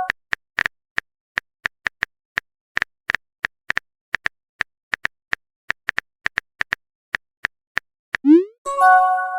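Phone keyboard typing sound effect: a long run of short, irregularly spaced clicks, about three a second. Near the end, a rising pop and a short chime-like tone sound as a text message.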